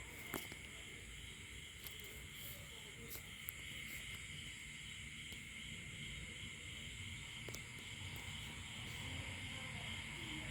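Steady high-pitched chorus of calling animals, with a few faint clicks and a low rumble that grows near the end.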